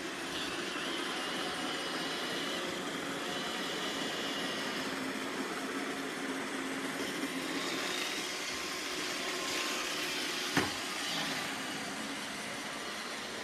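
iRobot Roomba 780 robot vacuum running: a steady whir from its vacuum motor and brushes, with a single sharp knock about ten and a half seconds in.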